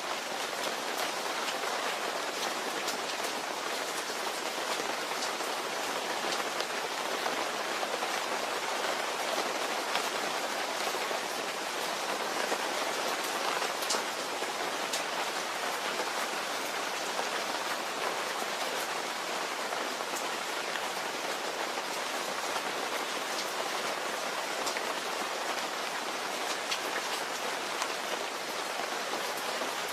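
Steady rain falling, a continuous hiss with the patter of individual drops hitting a surface.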